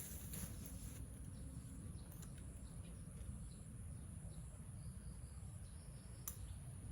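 Quiet background sound: a low rumble under a steady high-pitched insect chirring, with a few faint clicks, one about two seconds in and a sharper one near the end.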